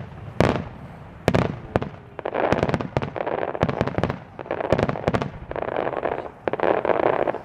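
Starmine fireworks display: a few sharp shell bursts, then repeated dense crackling clusters, each lasting about a second.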